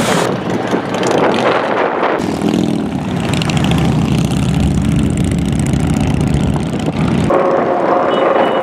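Motorcycle engines running loudly as bikes ride past in a large group, the sound changing abruptly about two seconds in and again near the end.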